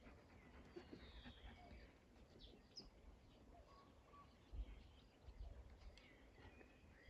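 Near silence: faint scattered bird chirps over a quiet outdoor background.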